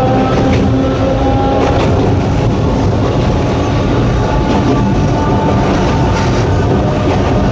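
Sangi Railway Hokusei Line narrow-gauge electric train running steadily, its nose-suspended traction motors and gears whining over loud, continuous wheel-and-rail rumble. The whine fades after the first couple of seconds, and a few faint rail clicks sound through.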